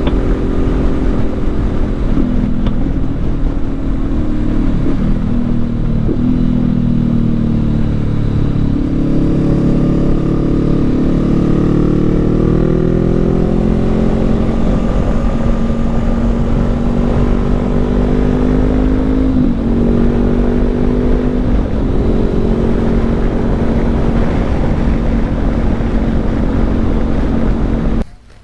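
2019 Honda CB500X's parallel-twin engine running at road speed, with wind and road noise. The engine note steps up and down in pitch several times and climbs slowly through the middle, then cuts off just before the end.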